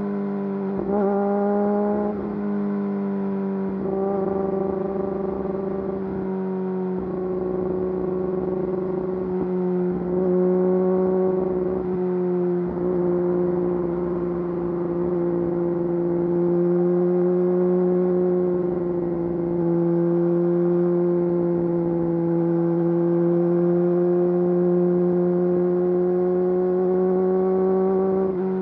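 Yamaha YZF-R6 inline-four running through an Akrapovič full exhaust system under way. There are several brief throttle dips in the first dozen seconds, then a steady cruise with slow small rises and falls in engine speed.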